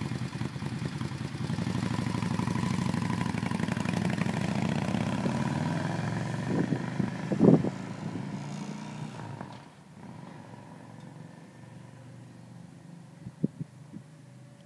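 Yamaha motorcycle engine running with a steady rumble, with one sharp knock about seven and a half seconds in. About ten seconds in the sound drops off sharply, and the engine stays faint after that.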